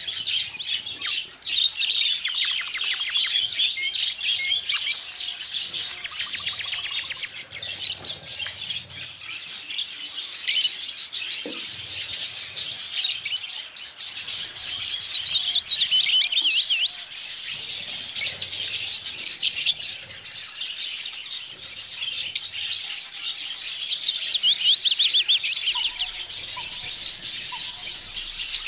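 A flock of budgerigars chattering without pause, many birds at once, with overlapping chirps and warbling.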